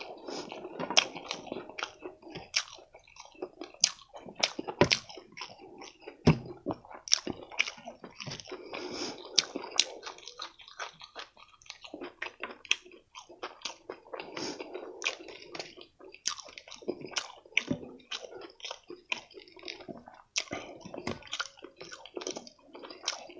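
Close-miked chewing and biting into food, wet mouth sounds with many sharp crunches and clicks scattered throughout.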